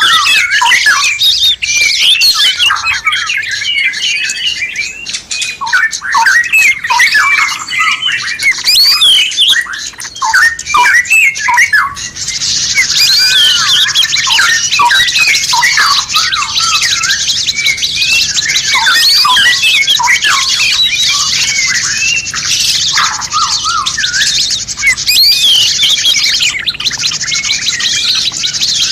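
Several songbirds calling at once, a dense run of quick chirps, whistles and squawks from a mixed songbird recording used for training captive birds. About twelve seconds in, a steady high hiss joins under the calls.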